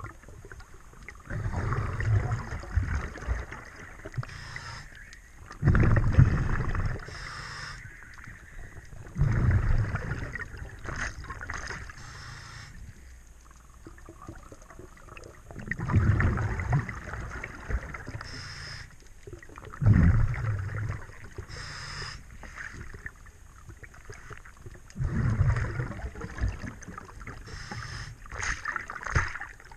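Underwater: a scuba diver's exhaled bubbles from the regulator, one rumbling burst of breath every few seconds, with quieter water noise in between.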